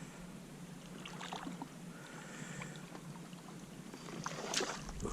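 Light water splashing and small knocks around a fishing kayak, in a few scattered bursts, the strongest near the end.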